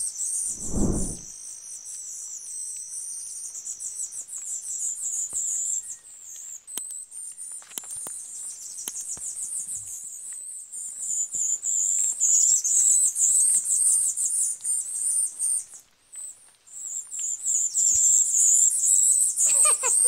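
Tanager finch calling: runs of very high, thin, rapidly repeated chirping notes, louder in the second half with a brief gap about three-quarters of the way through. A steady thin high tone runs under the first few seconds.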